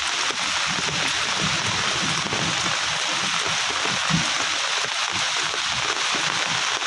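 Heavy rain pouring down in a steady, dense hiss, with irregular patters of drops striking surfaces underneath.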